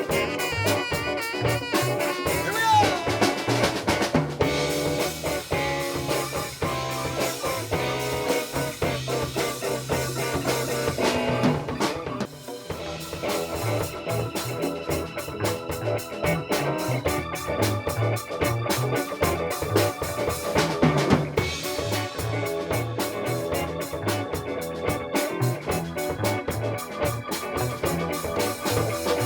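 Live band music, a funk instrumental with a prominent drum kit beat of snare, rimshots and bass drum under held melody notes.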